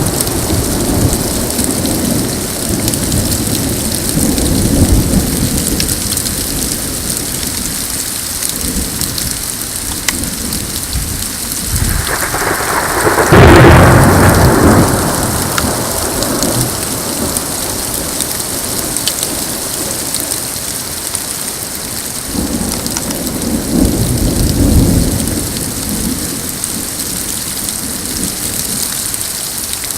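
Thunderstorm: a steady hiss of falling rain and hail, with thunder rumbling in the first few seconds. A loud, close thunderclap comes a little under halfway through, and another rumble of thunder follows about three quarters of the way through.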